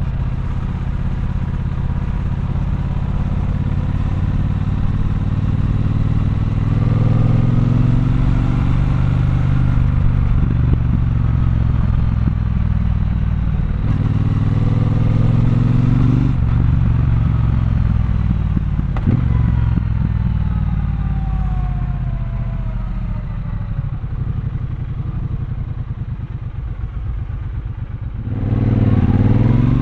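Triumph Bonneville Bobber's 1200 cc parallel-twin engine running under way in traffic, pulling up through the revs several times and easing off between. Its revs and level drop briefly, then it accelerates hard just before the end.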